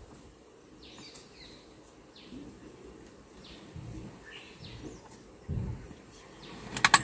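Birds calling in short falling chirps about once a second over quiet outdoor ambience, with a few low thumps and rustles, and a quick run of sharp clicks near the end.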